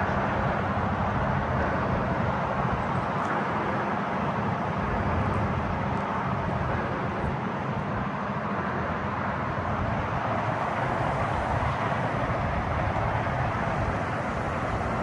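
Heavy diesel dump truck's Cummins X15 turbo diesel running steadily, a low even engine hum with a broad rushing noise over it.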